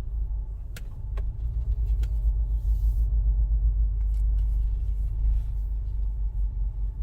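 A car engine idling close by: a low, unsteady rumble, with a few faint clicks in the first two seconds.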